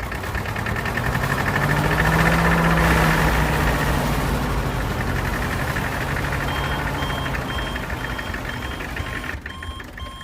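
Small motor of a DIY mini tractor running with a fast, even ticking; it swells to its loudest about three seconds in, then eases off. From just past the middle, a series of short electronic beeps about twice a second, like a reversing alarm.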